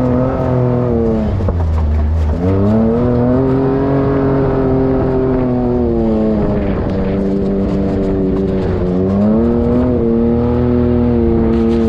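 Side-by-side UTV engine running under way, its pitch rising and falling with the throttle. It drops away sharply about two seconds in and again near nine seconds, then climbs back each time.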